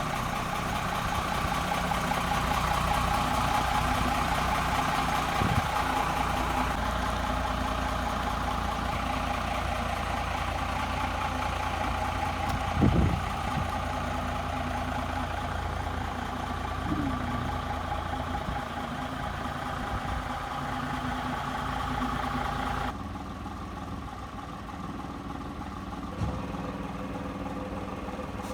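Gardner 6LXC straight-six diesel engine idling steadily, with a single thump about 13 seconds in. The sound turns duller about 23 seconds in.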